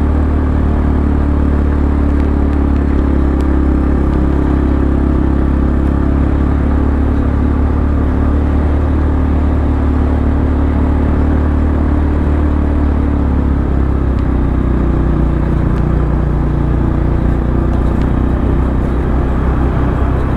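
Motorcycle engine running steadily while riding, its pitch dropping slightly about fourteen seconds in.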